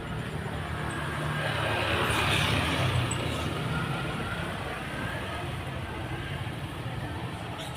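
Tuk-tuk's small engine running steadily, with a louder swell of road and traffic noise about two to three seconds in.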